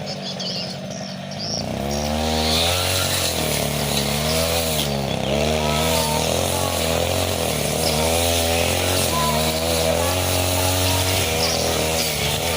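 40cc two-stroke brush cutter running. About two seconds in it is throttled up, and its engine speed then rises and dips repeatedly as the blade works through thick grass.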